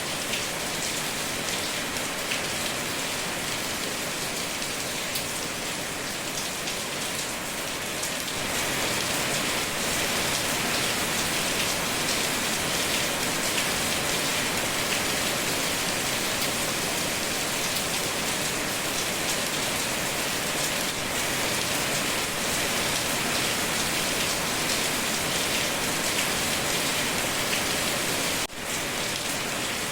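Steady rain falling, an even hiss of many drops on surfaces. It grows a little louder about eight seconds in and drops out for an instant near the end.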